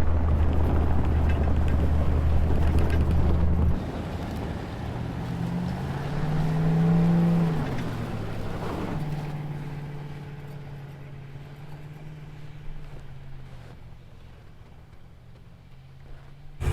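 A vehicle engine running steadily close by, cut off suddenly about four seconds in; then the Ford Raptor pickup's engine revs up and settles as the truck drives away, its sound fading gradually.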